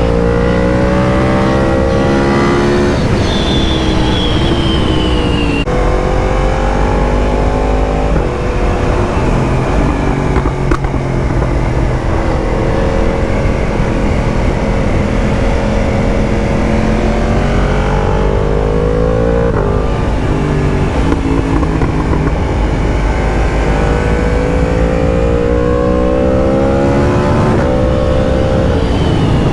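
Yamaha MT-10's crossplane inline-four engine, breathing through an Akrapovic exhaust, pulling hard while being ridden. Its note climbs in pitch and drops sharply at each upshift, with two quick shifts in the first six seconds, then rises and falls more gently, over a steady low rumble of wind.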